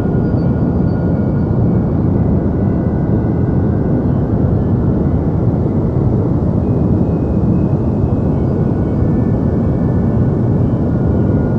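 Steady deep noise of the kind sold as white noise for sleep: an even, unchanging hiss weighted heavily toward the bass, with little treble. Faint thin tones come and go higher up.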